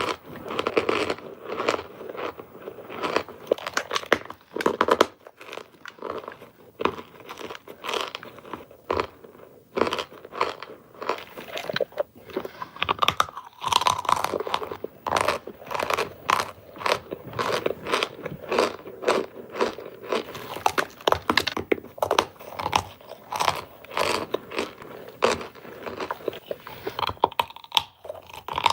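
Close-up crunching and chewing of hard baked cornstarch bricks: a rapid, irregular run of crisp cracks as the brittle starch is bitten and ground between the teeth.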